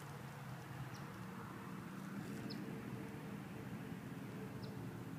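Bumblebee buzzing in a low, wavering hum close by, with three faint, brief high bird chirps.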